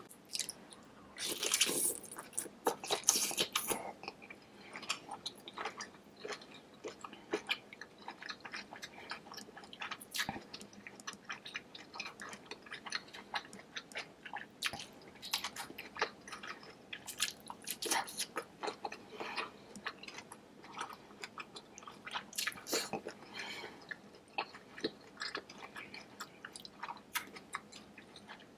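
Close-up chewing and biting of deshelled seafood boil in sauce: irregular wet smacks and soft crunches, with louder bites in the first few seconds.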